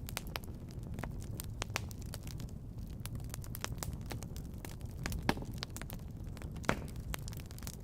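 Wood fire crackling in a fireplace: a constant scatter of small sharp crackles over a steady low rumble, with two louder pops about five and seven seconds in.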